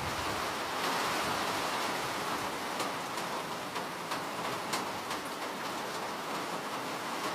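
Steady rain falling: an even hiss with a few distinct drops ticking sharply through the middle.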